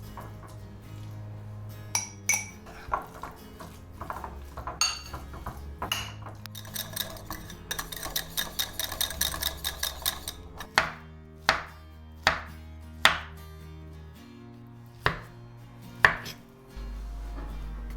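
Dishes and kitchen utensils clinking and knocking, with a fast, even run of light taps in the middle and several sharper knocks near the end, over soft background music.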